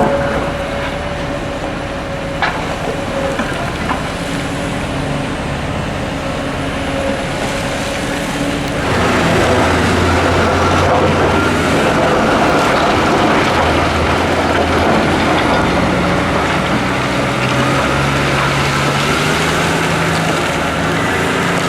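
Diesel engines of a Hitachi Zaxis 890LCR excavator and a CAT 775D quarry truck running steadily. The sound grows louder and fuller about nine seconds in, as the machines work harder.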